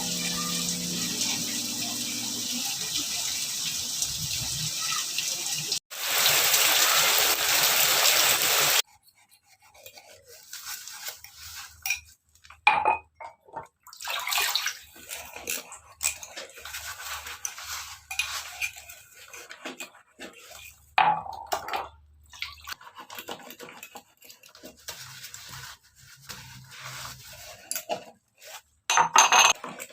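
A steady rush of water that grows louder about six seconds in and cuts off abruptly about nine seconds in. Then scattered clinks, knocks and scrapes of dishes, pots and utensils being handled.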